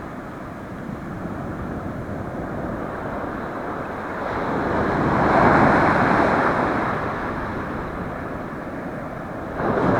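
Ocean surf washing on the shore, with a wave swelling louder about halfway through and then ebbing, and wind rumbling on the microphone.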